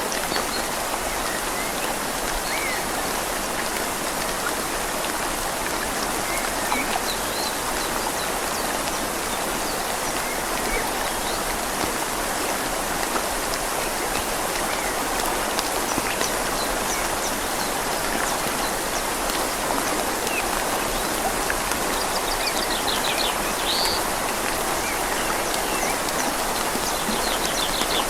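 Steady rain falling on leaves over a river's flowing water, an even hiss. A bird chirps in short trills twice near the end.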